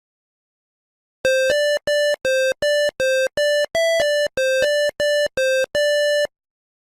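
A quick run of about fourteen short electronic beep tones, about three a second, forming a simple tune. Most are at nearly the same pitch, one in the middle is higher, and the last is held a little longer.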